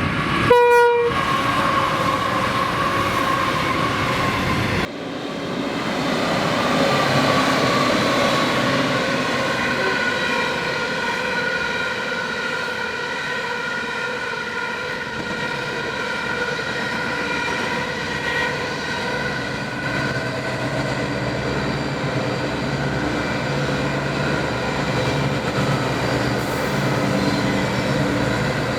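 Diesel locomotives on a coal train, with a short horn blast about half a second in. After an abrupt cut near five seconds, the locomotives' engines drone steadily as the train runs.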